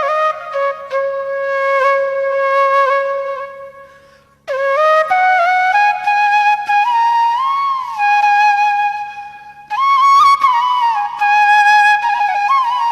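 Slow flute melody with sliding notes and vibrato, one line at a time, fading out about four seconds in and re-entering half a second later.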